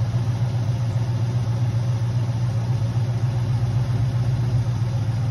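1971 Ford Mustang Boss 351's 351 Cleveland V8 idling steadily, a constant low hum with no change in speed.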